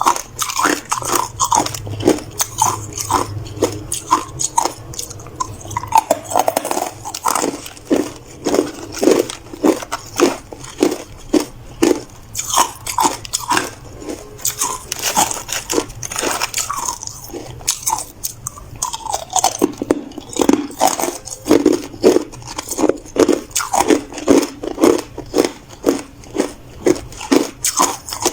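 Hard ice being bitten and chewed close to the microphone: a steady run of loud, sharp crunches, about two to three a second, with a couple of brief lulls.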